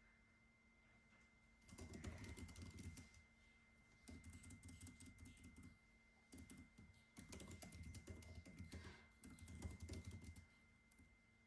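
Computer keyboard typing in quick runs of keystrokes: about five bursts of one to two seconds each, separated by short pauses. It is faint, over a faint steady high-pitched whine.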